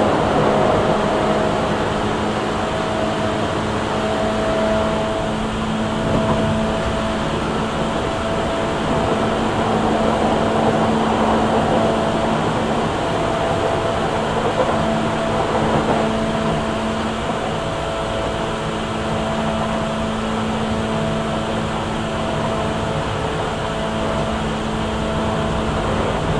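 Tokyu 8500 series electric train heard from inside a Hitachi-motored car, with steady running noise, a low hum, and a higher tone that fades in and out.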